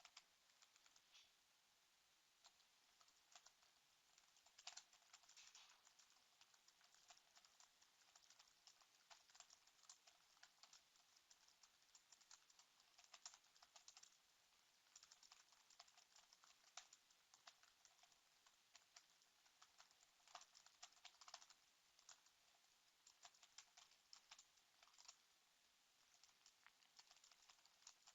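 Faint computer keyboard typing, rapid key clicks coming in irregular bursts with short pauses between.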